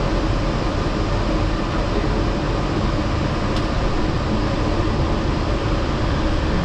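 Yurikamome rubber-tyred automated guideway train running steadily, heard from inside the car: an even rolling rumble with a faint motor and air-conditioning hum. A single faint click sounds about three and a half seconds in.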